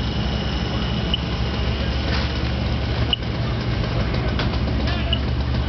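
Engine idling steadily with a low, even drone, and a faint high whine running over it.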